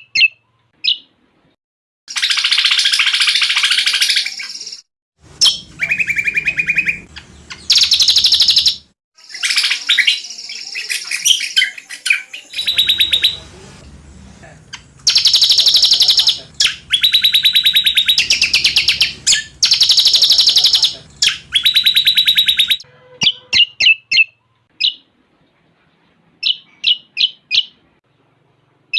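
Common iora (cucak combok) song, fast and varied: several long rapid trills, each lasting about two seconds, with short sharp chirps near the start and again near the end.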